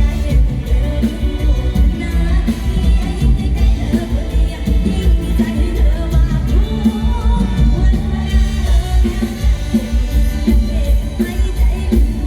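Live stage band music with a heavy, pulsing bass beat and a singing voice over it.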